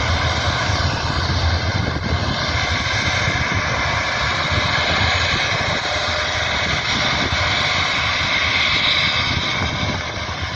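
Airbus A350's Rolls-Royce Trent XWB jet engines running at taxi power: a steady rumble with a high whine that grows a little stronger about eight seconds in.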